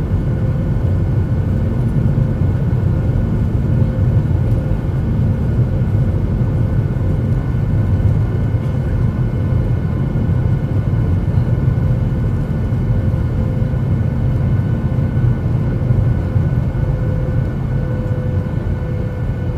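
Airliner cabin noise: a steady, loud, deep rumble of the engines and rushing air, with a few faint steady tones above it.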